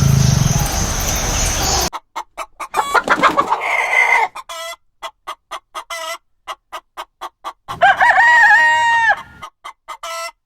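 Chickens: after a sudden cut about two seconds in, a run of short, quickly repeated clucks with a rooster crowing twice.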